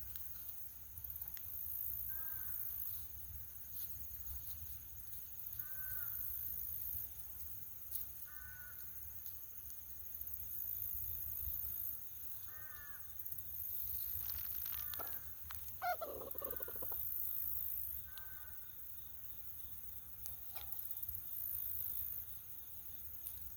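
Short harsh bird calls every few seconds, with one longer, louder call about sixteen seconds in.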